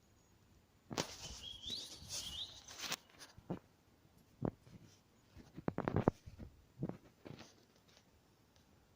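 A few brief rising bird chirps over about two seconds of rustling, followed by scattered sharp knocks and taps, a cluster of them about six seconds in.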